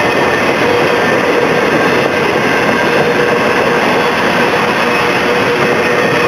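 Loaded flatcars of a freight train rolling past close by: a steady, loud rolling rattle of steel wheels on rail, with a faint steady tone running under it.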